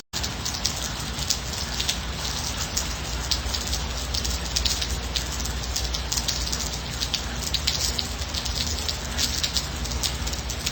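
Steady rain falling, with many separate drops striking sharply and close over an even hiss, and no thunder. A split-second break to silence right at the start.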